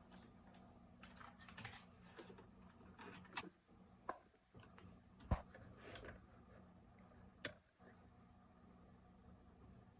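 Faint, scattered clicks and light taps of something being handled, the sharpest about three and a half, five and seven and a half seconds in, over a faint steady low hum.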